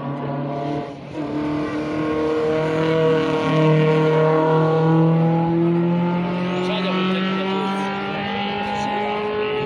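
Historic rally car engine under hard acceleration: after a short dip about a second in, the engine note climbs slowly and steadily in pitch as the car pulls through a long gear.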